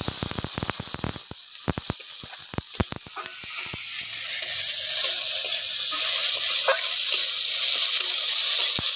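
Spice paste of tomato, onion and ginger-garlic paste frying in mustard oil in a metal kadai, sizzling, while a metal spatula scrapes and taps against the pan. Many sharp spatula clicks come in the first three seconds, and the sizzle grows louder from about four seconds in.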